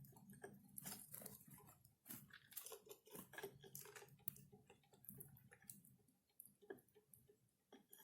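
Faint, irregular crunching and clicking of small birds pecking at and cracking seed.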